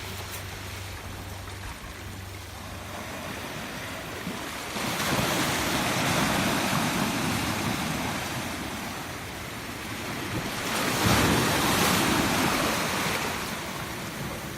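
Rough sea surf breaking on the shore, a steady rushing wash that swells up about five seconds in and again about eleven seconds in as bigger waves come in.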